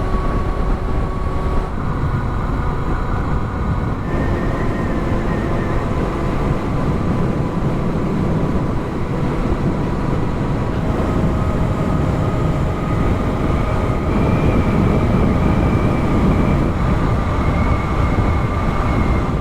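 Heavy wind rush and buffeting on the microphone of a rider moving along the road in strong wind, with a few faint steady whines that step to new pitches every few seconds.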